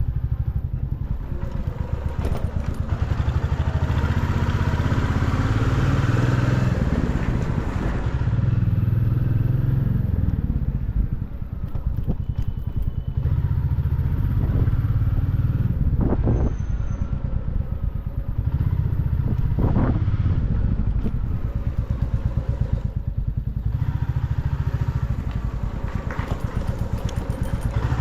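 Motorcycle engine and exhaust running steadily while being ridden, with a close, rapid exhaust pulse, easing off briefly a few times as the throttle is rolled back.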